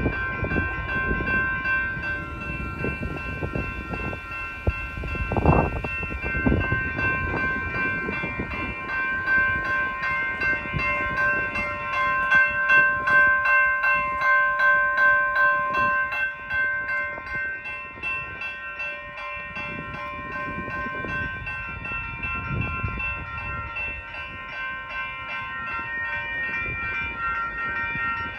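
Freight train of autorack cars rolling steadily past a grade crossing: a low rumble and clatter of wheels on the rails, under the crossing's warning bell ringing on and on. Two heavy low thumps come about five and six seconds in.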